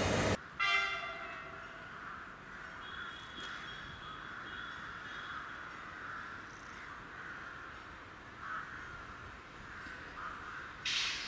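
Train noise cuts off suddenly, then a single bird call lasting about a second is followed by quiet outdoor background.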